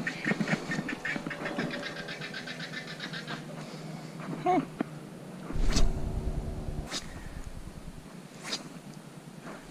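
A bird calling: a rapid run of repeated high notes lasting about three seconds, then a short lower call. Later come a few sharp clicks or knocks, the loudest about six seconds in.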